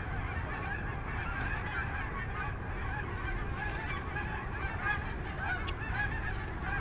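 A flock of poultry calling continuously, many short overlapping honking calls over a steady low rumble.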